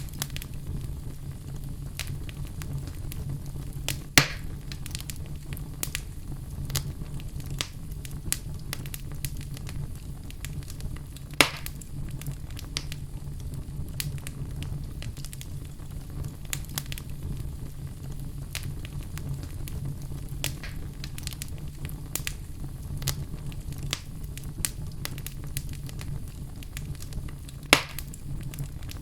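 Fireplace fire burning with a steady low rush and constant small crackles. Three louder pops stand out, about four seconds in, about eleven seconds in, and near the end.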